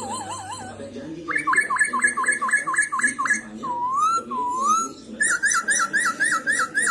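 Black-throated laughingthrush singing loud, clear whistled phrases: a quick run of about ten repeated rising notes, two slow swooping notes, then a run of repeated falling notes, with thin high notes sounding above.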